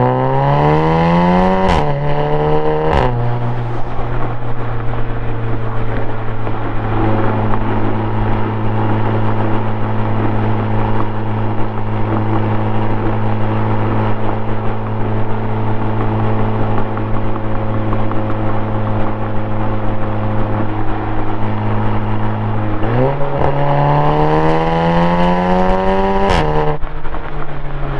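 2016 Audi S3's turbocharged 2.0-litre four-cylinder through a custom 3-inch single-exit exhaust with one resonator: it revs up through two gear changes, each marked by a sharp tick, then holds a steady drone at constant engine speed for about twenty seconds. Near the end it accelerates again, with another shift and the pitch climbing once more.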